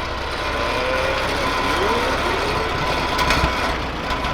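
A steady engine hum with background voices of people talking.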